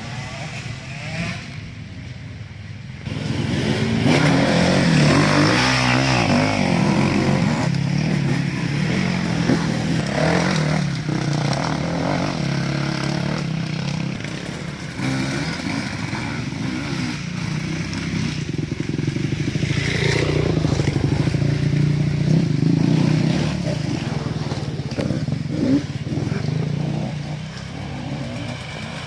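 Racing motorcycle engines revving, their pitch rising and falling repeatedly; louder from about three seconds in.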